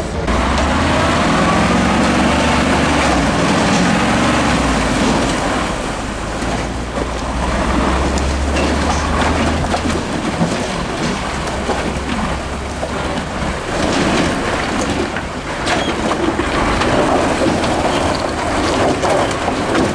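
Diesel engine of a 6x6 Ural trial truck running hard under load, revving up in the first few seconds, with a broad rushing noise over it. The deep rumble eases off about halfway through.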